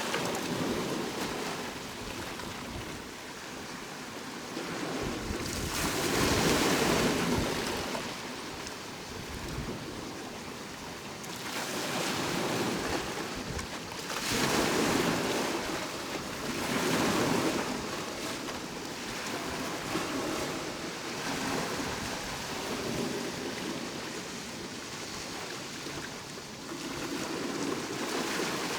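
Sea waves washing onto the shore, a rushing surf that swells and fades every few seconds as each wave breaks and draws back.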